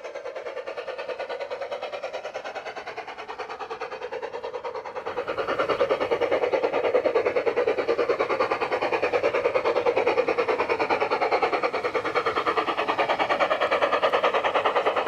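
Battery-powered G-scale garden model train running on its track, with a fast, even rhythmic clatter of about four beats a second that grows louder about five seconds in.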